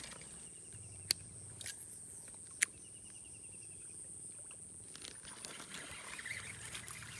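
Steady high-pitched buzz of insects, crickets or cicadas, with two faint short chirping trills and two sharp clicks, about one and two and a half seconds in.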